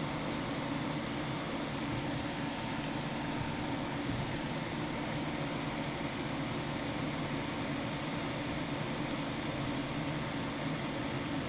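Steady mechanical hum and hiss that never changes, with a faint steady tone running through it.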